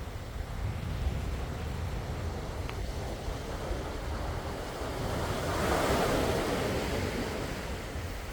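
Sea waves washing on the shore, one wave swelling and breaking about two-thirds of the way in, then fading. A steady low rumble of wind on the microphone runs underneath.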